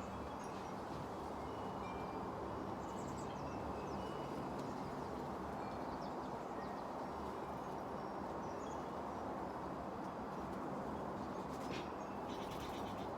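Steady wind noise rushing over the microphone, with faint, brief small-bird chirps scattered throughout and a few light clicks near the end.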